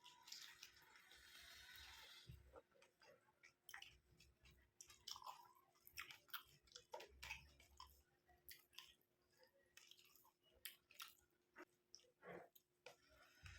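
A person chewing a mouthful of curry and rice close to the microphone, quietly, with many small wet mouth clicks. A soft hiss runs for about the first two seconds, and a faint steady hum lies underneath.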